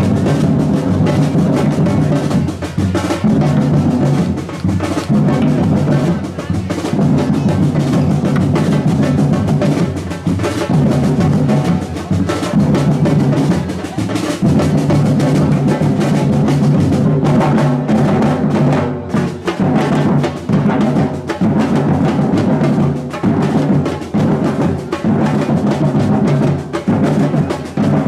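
Batucada samba drum ensemble playing a dense, driving rhythm, with heavy bass drums under snare drums.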